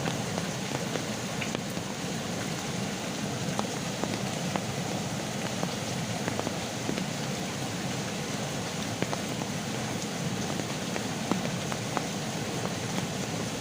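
Heavy rain falling steadily, an even hiss with scattered sharper drops tapping on nearby surfaces.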